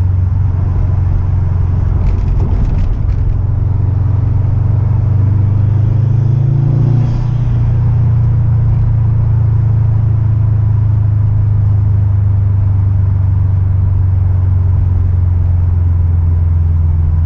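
Car engine running with a steady low drone, its pitch rising slightly and settling back about six seconds in.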